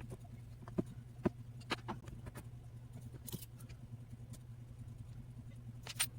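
Scattered small clicks and taps of RC car parts and tools being handled on a workbench, over a low steady hum.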